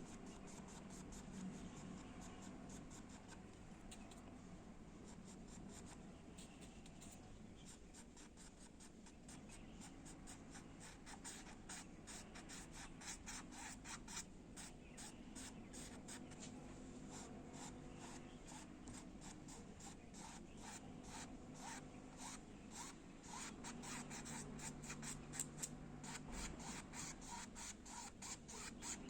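Faint, quick scratchy strokes of a paintbrush on the painting surface, several a second, growing busier about a third of the way in, over a low steady hum.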